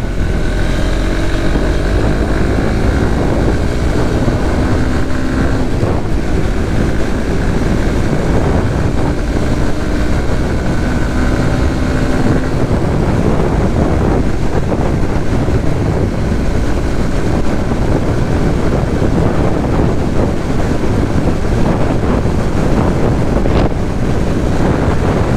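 Suzuki GSX-S150's single-cylinder engine pulling the motorcycle up to speed, its note rising, dropping back briefly about five and a half seconds in, then rising again. After about twelve seconds the engine note sinks under a steady rush of wind on the microphone.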